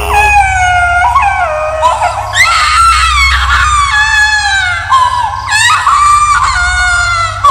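High-pitched wailing cries of a horror 'ghost baby' sound effect, several long wails in a row, each falling in pitch, over a steady low drone.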